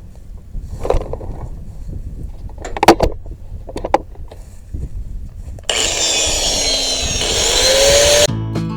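A few light metal knocks, then from about six seconds in an angle grinder grinding weld off steel, a loud harsh grind with a whine that sinks and then rises. It cuts off suddenly near the end, and strummed acoustic guitar music starts.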